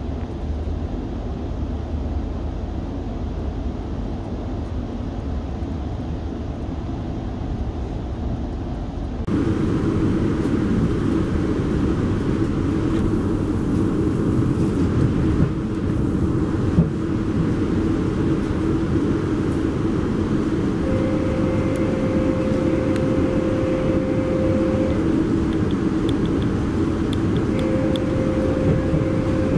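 Steady rolling noise of a Metrolink commuter train in motion, heard on board. About nine seconds in it becomes louder and brighter, and a steady tone sounds twice in the last third.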